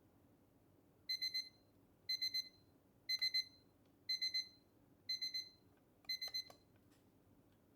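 Digital kitchen timer beeping: six bursts of four quick high-pitched beeps, about one burst a second, the 40-minute session timer going off. The last burst is cut short, with a few clicks as the beeping stops.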